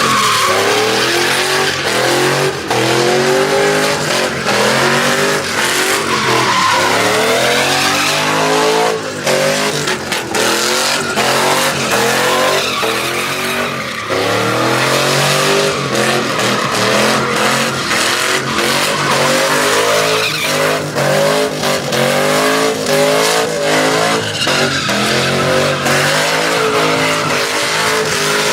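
Truck engine revving up and falling back again and again while its tyres spin and squeal in burnouts and donuts.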